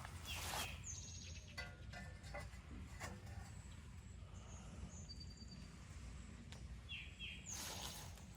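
Faint outdoor ambience: a few short bird chirps over a steady low rumble, with a soft rustle near the start and again near the end.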